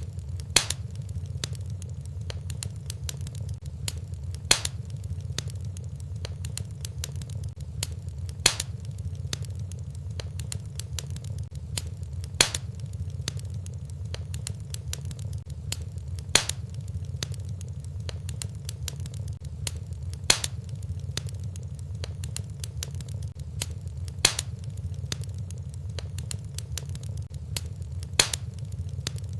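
Fire burning in a fireplace: a steady low rumble of flames with many small crackles, and a louder sharp pop about every four seconds.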